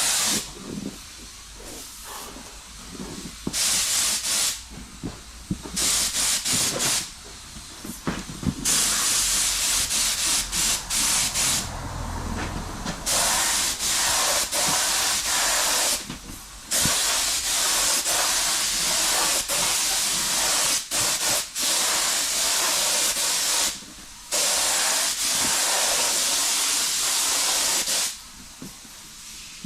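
Compressed-air paint spray gun hissing as it sprays paint, triggered on and off in bursts lasting from about one to several seconds, the longest running for about seven seconds.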